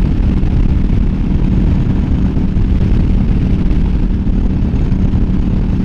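KTM 950 Adventure's V-twin engine running steadily at road speed, mixed with wind rush on the microphone.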